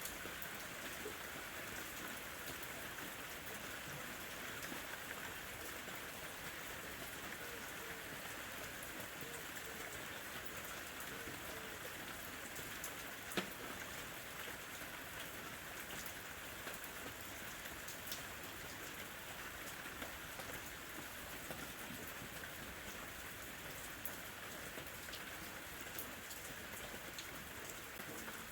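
Steady summer rain falling, a constant patter of drops on surfaces with scattered louder individual drips, one sharper drip about halfway through.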